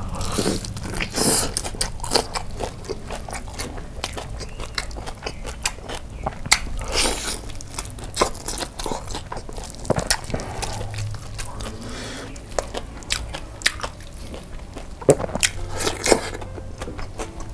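A bite into crisp fried chicken coated in kimchi sauce, followed by steady close-up chewing with many small crunches and crackles.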